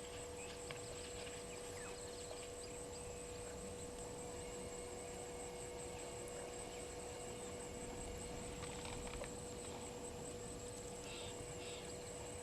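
Outdoor bush ambience at a waterhole: a continuous high, pulsing insect trill over a steady electrical hum, with a few faint bird chirps.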